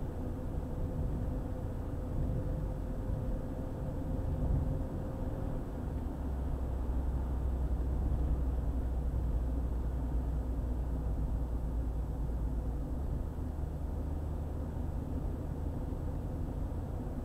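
A car driving on a highway: steady low rumble of engine and tyre noise, swelling a little in the middle.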